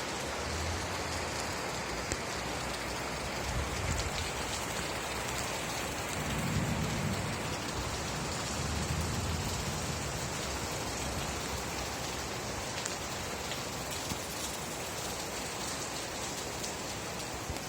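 Steady rain falling, an even patter with faint individual drops ticking, and a low rumble twice near the middle.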